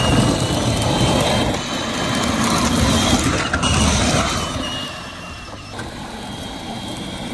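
Power Wheels ride-on toy monster truck driving off: its electric motor and gearbox whine over a dense rumble of tyres on the ground, easing somewhat near the end.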